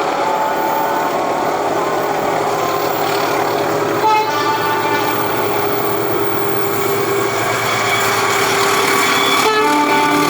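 Train running past with its diesel locomotive, giving two short horn toots, one about four seconds in and one near the end.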